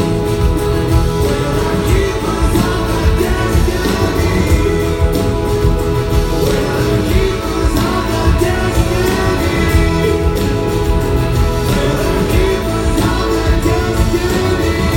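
Live rock band playing loudly, with guitars and a lead voice singing over the full band.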